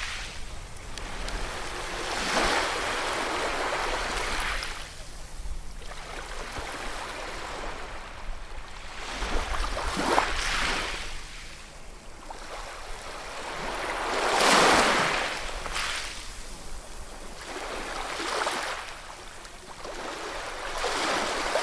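Ocean surf: waves breaking one after another, each a rushing swell that rises and falls away, about five in a row, the loudest about two-thirds of the way through.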